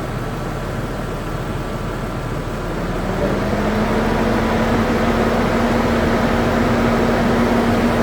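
Saturn Vue running with its air conditioning on during an A/C service. About three seconds in, a hum rises in pitch and level and then holds as a steady tone, as when the A/C compressor or cooling fan comes on.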